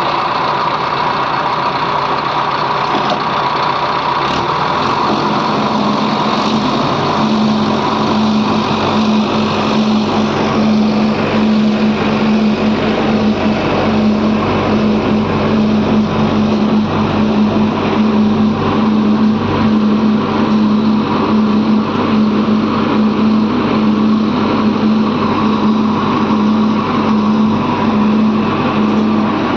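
Heavy diesel engine of an earth-moving or tractor machine running steadily; about five seconds in the engine note steadies and grows slightly louder, then holds.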